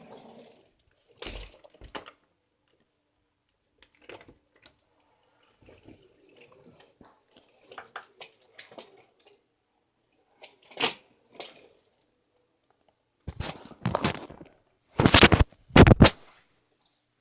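Scattered handling noises: short rustles, clicks and knocks, with several loud bumps close to the microphone near the end.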